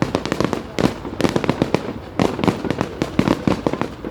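Fireworks going off: a dense, irregular run of sharp bangs and crackling pops, many overlapping.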